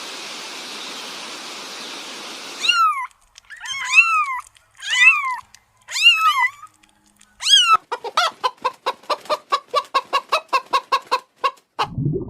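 A steady hiss for the first couple of seconds, then an animal calling: five separate calls that rise and fall in pitch, followed by a fast run of short repeated notes, about five a second.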